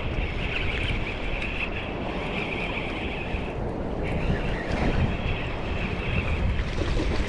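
Strong wind buffeting the microphone with a steady low rumble, over choppy water washing around a fishing kayak.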